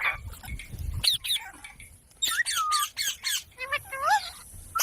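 A parrot calling in a string of short, sharp calls that bend up and down in pitch, coming in several quick groups.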